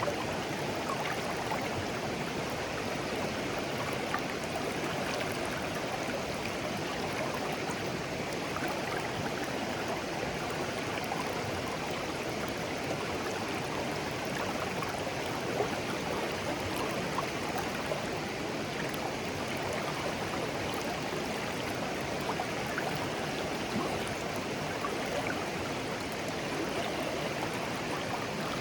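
Clear shallow stream flowing steadily over stones, an even babbling with small splashes and trickles scattered through it.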